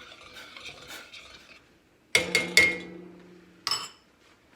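A spoon stirring rice in a metal pot, tapping lightly against the sides, then several loud metal clanks about two seconds in that leave the pot ringing, and one more sharp clink near the end.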